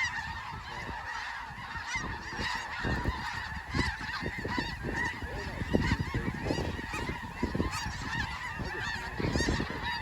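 A large flock of snow geese calling, a dense continuous chorus of overlapping high honks.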